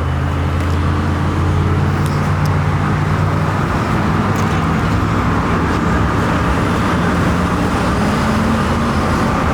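Motor vehicle running steadily, with a held low engine hum under an even rush of road or traffic noise.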